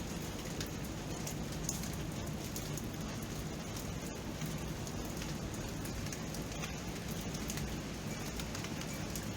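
Steady rain at night, an even hiss with many small drop ticks throughout.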